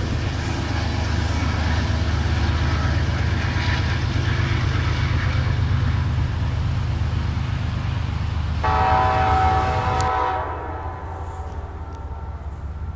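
Train running past with a steady low rumble. About two-thirds of the way in its horn sounds one chord for roughly a second and a half, and then the rumble drops away.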